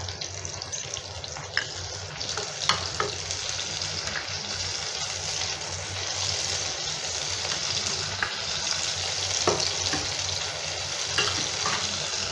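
Tomato purée masala sizzling in hot oil in a nonstick pan as dry ground spices are tipped in and stirred with a wooden spatula, the sizzle growing slightly louder. A few sharp clicks stand out over it.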